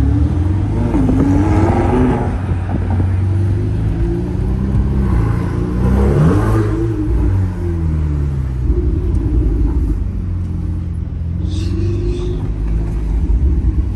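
Sports car engine running while driving: a steady low rumble, its pitch rising and falling several times as the car accelerates and eases off.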